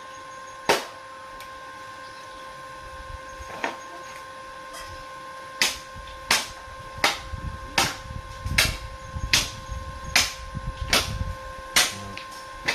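Hammer blows on steel: a couple of single strikes, then a steady run of blows about every three-quarters of a second from about halfway through. A steady high-pitched hum sounds under them.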